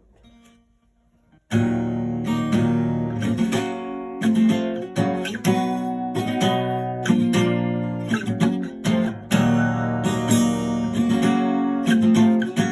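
Acoustic guitar strumming chords in a steady rhythm, starting abruptly about a second and a half in after a short quiet lead-in; it is the instrumental intro of a song, with no singing yet.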